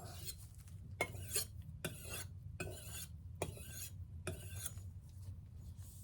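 Chef's knife blade stroked back and forth across a sharpening stone, a rhythmic gritty scrape about once every second, with the last few strokes fainter.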